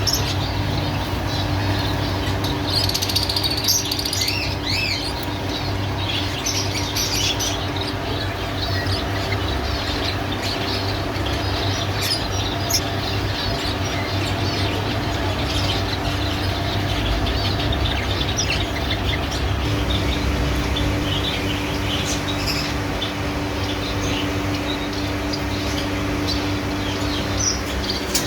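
Caged finches chirping and calling, many short overlapping chirps, busiest in the first several seconds, over a steady low hum.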